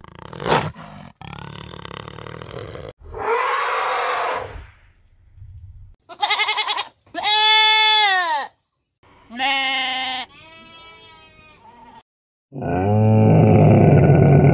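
A run of separate animal calls, one clip after another with short silences between: several rise and fall in pitch, and the loudest, a low, heavy call, comes near the end.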